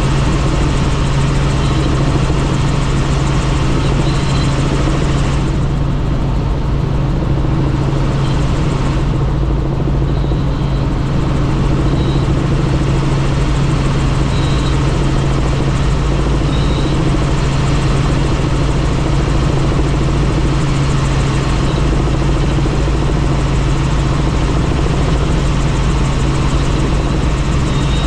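Helicopter in flight heard from on board: a steady drone of the engine and rotor with a constant low hum under a rush of wind. The hiss eases for a few seconds about six seconds in, then returns.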